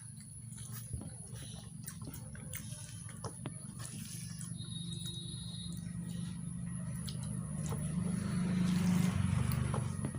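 Someone eating mutton curry with rice: wet, squelchy food and mouth sounds with scattered small clicks, getting louder near the end, over a steady low hum.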